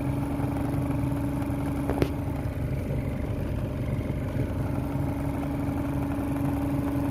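Electric motor running at a steady speed with a constant hum. A single sharp click about two seconds in.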